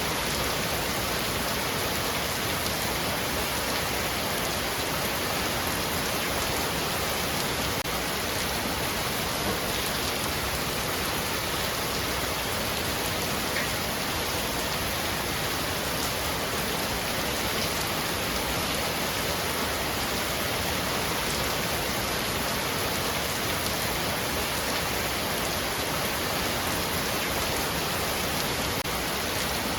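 Heavy rain falling steadily on a roof, an even unbroken hiss of drops with no thunder.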